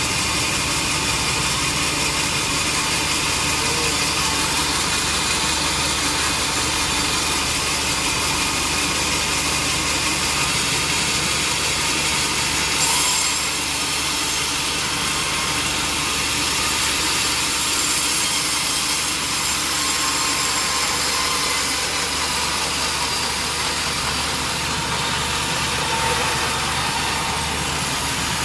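Sawmill saw running steadily as it cuts through durian wood, with a brief knock about 13 seconds in.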